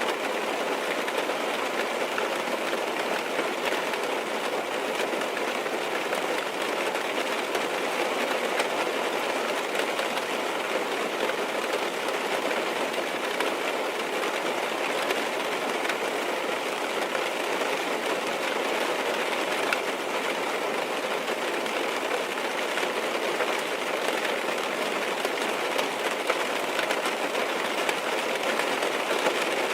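Steady heavy rain drumming on a car's roof and windows, heard from inside the car as an even wash of patter.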